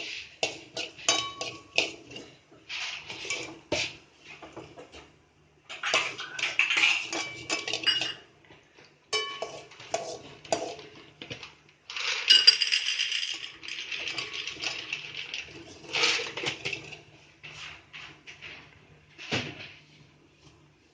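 Mustard seeds and cumin spluttering in hot oil in a pan: irregular sharp pops and clinks in clusters, densest about twelve seconds in.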